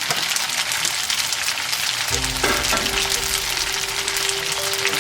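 Boiled noodles sizzling and crackling as they stir-fry in hot oil in a pan. Background music comes in about two seconds in.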